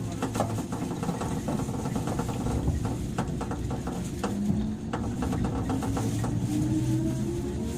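Interior running sound of a JR 103 series electric train motor car: traction motors whining in a steadily rising pitch through the second half as the train gathers speed, over rumbling wheels and a string of sharp clicks from the rail joints.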